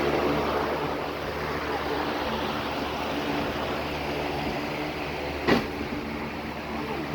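A steady mechanical hum, like a motor running, with one sharp click about five and a half seconds in.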